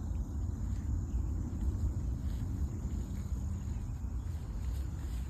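Insects droning on a steady high note over a low, fluctuating rumble on the microphone.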